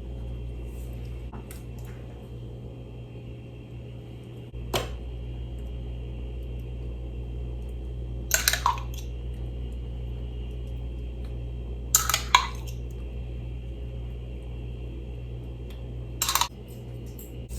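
Four sharp clinks, a few seconds apart, over a steady low hum.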